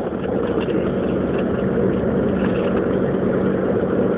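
A Jeep Grand Cherokee driving, heard from inside the cabin: steady engine and road noise with a constant low hum.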